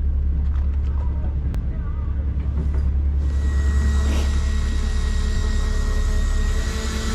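Steady low drone of the fishing boat's engine. About three seconds in, a hiss with a faint, steady high tone joins it and stays.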